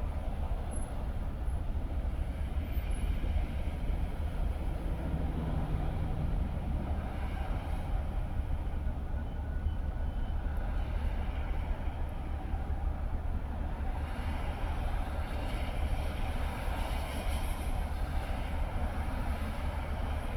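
Car driving along a road: a steady low rumble of engine and tyres with a hiss over it, the hiss growing a little brighter about two-thirds of the way through.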